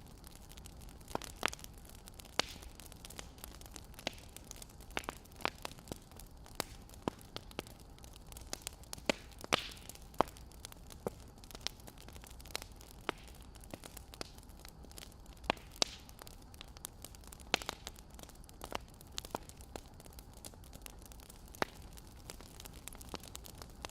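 Wood fire crackling: irregular sharp pops and snaps from burning logs over a low steady hiss.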